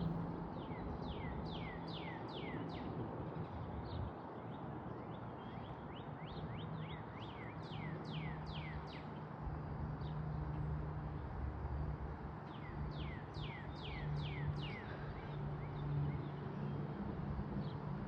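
A bird calling in three runs of quick, high notes that each sweep downward in pitch, over a steady low hum.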